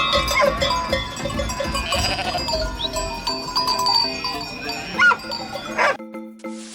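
An animal bleating several times, with the loudest call about five seconds in. Music with plucked, piano-like notes comes in near the end.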